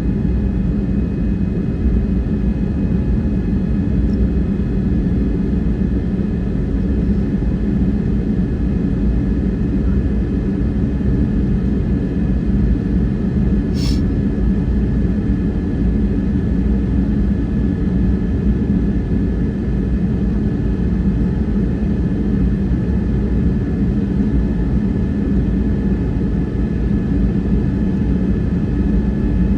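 Airbus A321neo cabin noise heard from inside: the jet engines and airflow make a steady low rumble with a faint constant whine over it. A single short, sharp click sounds about halfway through.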